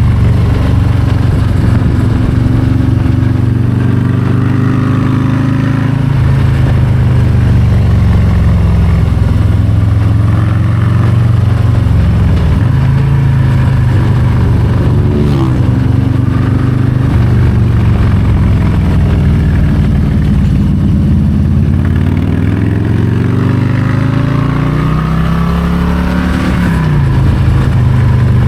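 Harley-Davidson Low Rider ST's Milwaukee-Eight 117 V-twin under way, revs rising and falling with the throttle through a run of curves. Near the end the revs climb steeply for a few seconds, then drop sharply.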